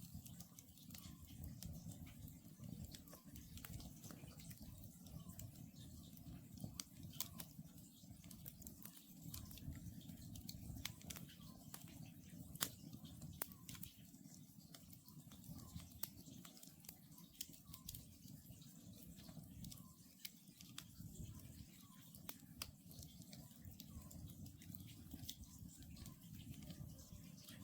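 Wood campfire crackling, with irregular sharp pops over a low steady rush of burning logs. A distant oriental scops owl calls faintly now and then.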